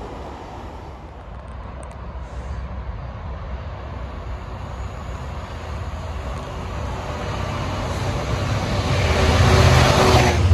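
A train approaching, its low rumble growing steadily louder and reaching its loudest near the end as it draws close.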